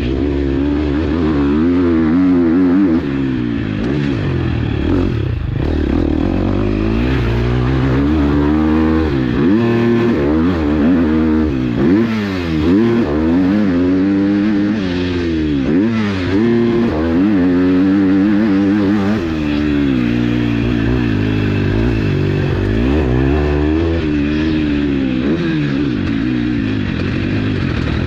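2021 KTM 250 SX-F single-cylinder four-stroke motocross engine under hard riding, revving up and dropping back again and again as the rider accelerates, shifts and rolls off the throttle.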